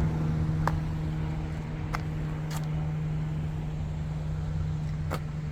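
A vehicle engine idling, a steady low hum, with a few faint sharp clicks over it.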